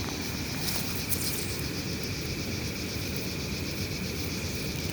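Insects trilling steadily in a high, even tone over a low, steady rush of outdoor background noise.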